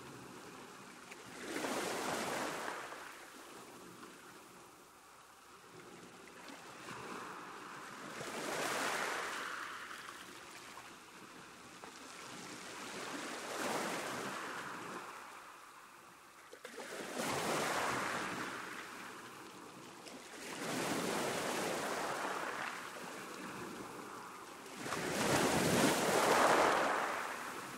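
Sea waves breaking on a shore and washing back, in about six swells a few seconds apart, the loudest one near the end.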